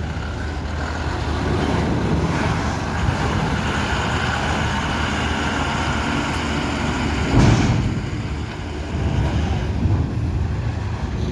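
Heavy vehicle's engine running steadily, with a short loud burst of noise about seven and a half seconds in.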